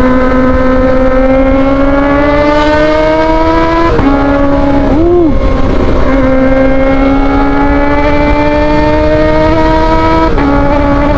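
Kawasaki ZX-25R's inline-four engine, through an aftermarket Austin Racing GP1R-style exhaust, accelerating hard under throttle. The pitch climbs steadily, drops suddenly at an upshift about four seconds in, climbs again and drops at a second upshift near the end.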